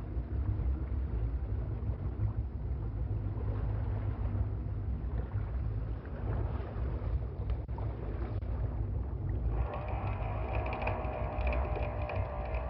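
Steady low rumble of a boat under way on the water, with some wind on the microphone. About ten seconds in, a steady whine made of several pitches joins.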